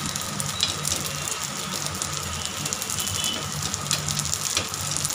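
Sabudana balls sizzling in oil in an appe pan on low heat: a steady hiss with fine crackling, and now and then a spoon clicking against the pan as the balls are turned.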